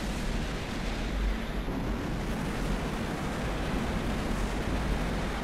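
A train running at speed: a steady rushing noise over a deep low rumble.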